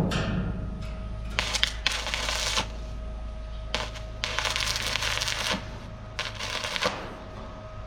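Three bursts of scratchy, rasping scraping noise, each about a second long, over a faint steady hum.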